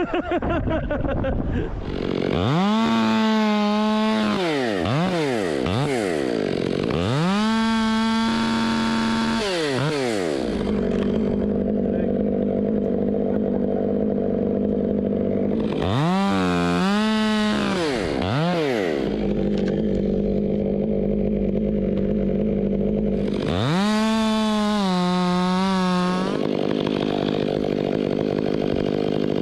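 Chainsaw revved up to full throttle four times, held for two to three seconds each, and dropped back to idle in between: cuts blocking chunks off a western red cedar trunk.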